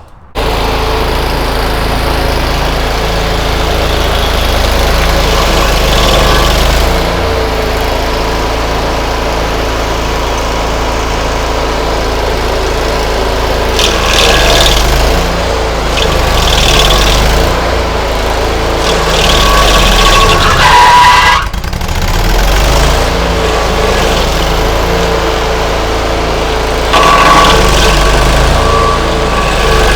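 Stump grinder's 27.5-horsepower overhead-valve V-twin engine running loud and steady while grinding out a tree stump. It swells louder and harsher several times, with one brief dip a little past the middle.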